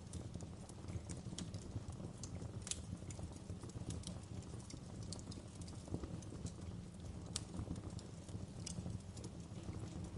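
Wood logs burning in a fireplace, crackling with irregular sharp pops and snaps over a steady low rumble of the fire.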